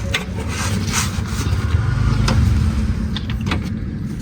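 A steady low mechanical rumble of a running motor, with scattered sharp clicks and knocks over it.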